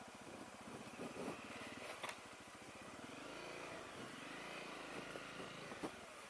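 Honda CRF250L's single-cylinder four-stroke engine running faintly, its pitch rising and falling a little midway, with a few short sharp knocks.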